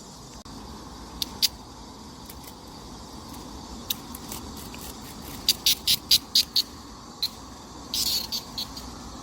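Steady background buzz of cicadas singing. Over it, louder sharp clicks come singly and in a quick run of about six, then a short rough burst near the end.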